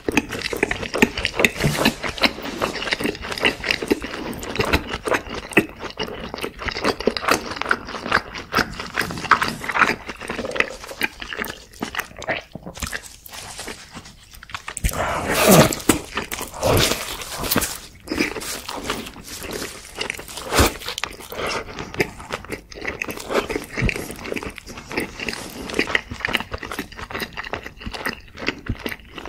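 Close-miked eating sounds of a person chewing fried fast food: wet chewing and lip smacking with crisp crunching bites, and a louder stretch about halfway through.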